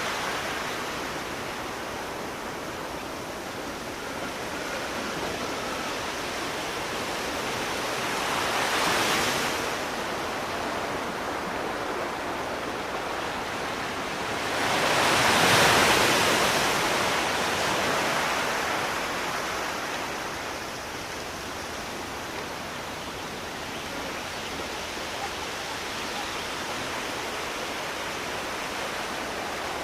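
Sea surf: a steady wash of waves with two louder breaking swells, one about nine seconds in and the loudest around fifteen seconds in, before it settles back.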